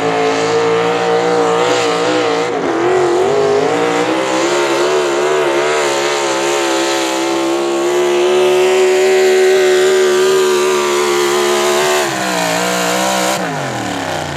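Gas pulling truck's engine at full throttle hauling the weight sled, revs wavering and then holding high and steady. About twelve seconds in the throttle comes off and the revs fall away near the end.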